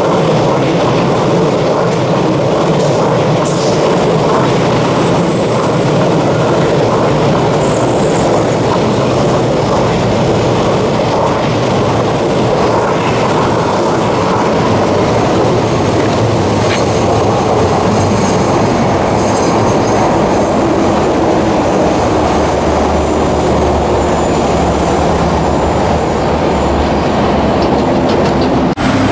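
An MTR electric commuter train running past close by on curving track, with steady wheel-on-rail noise. About twenty seconds in this gives way to the steady running noise heard from inside a moving train, with a low hum underneath.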